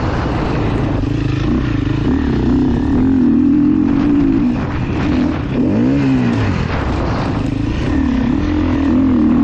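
KTM EXC 350 dirt bike engine being ridden, its revs rising and falling repeatedly with the throttle. About six seconds in the revs drop briefly, then swell and fall again.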